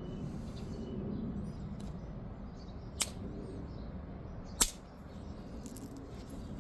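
Two sharp percussion strikes on an obsidian preform, about a second and a half apart, the second the louder; the strikes knock a thick thinning flake off the piece.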